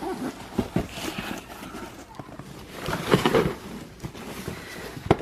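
Scattered knocks and clatter, with faint voices about three seconds in.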